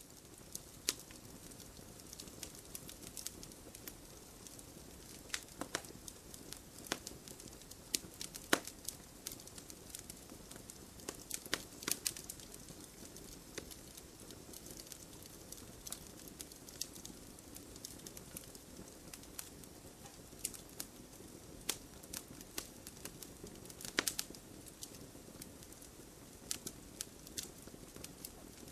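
Wood fire burning in a fireplace: a steady low hiss of flames with frequent sharp, irregular crackles and pops from the burning logs.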